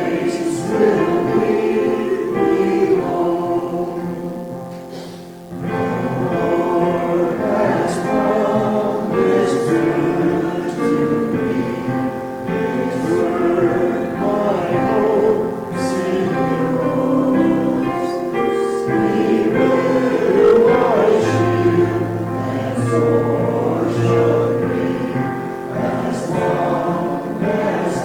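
Congregation singing a hymn together with piano accompaniment. There is a short breath pause about five seconds in.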